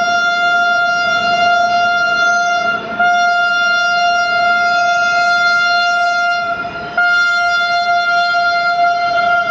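Train horn sounding long, steady blasts at one pitch, broken briefly about three seconds in and again about seven seconds in.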